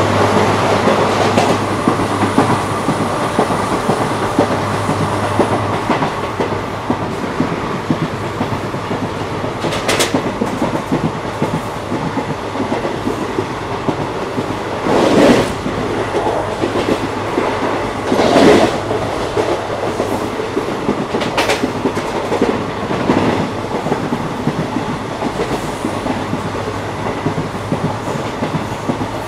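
Indian Railways ICF passenger coach running at speed: a steady rumble with the wheels clattering on the track. There are a few sharp clicks and two louder thumping clatters about halfway through.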